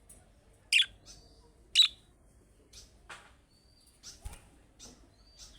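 Budgerigars chirping: short, sharp calls, two loud ones about a second apart near the start, then a scatter of fainter chirps and a few short thin whistles.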